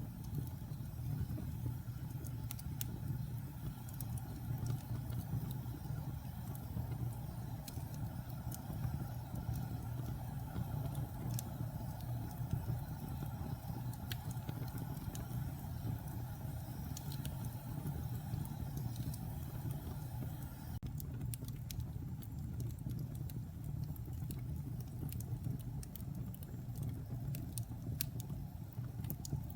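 Log fire burning in a fireplace, damp fresh and old pine logs crackling: a steady low rumble of flames with scattered sharp pops and crackles throughout.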